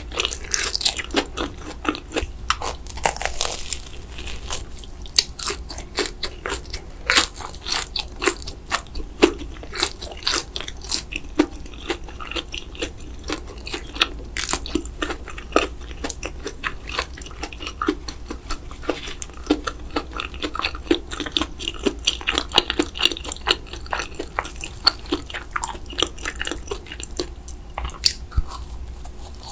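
Close-miked eating: a person biting and chewing crunchy food, with a steady run of sharp crunches and mouth clicks.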